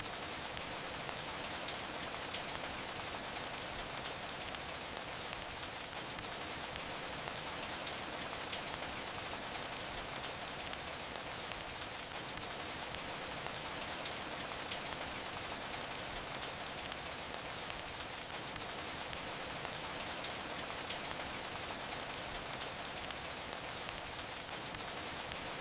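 Steady rain falling, with a sharp crackle from a wood fire every few seconds.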